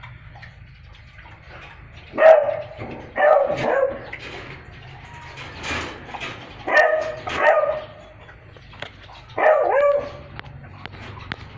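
A dog barking in several short groups of barks a few seconds apart.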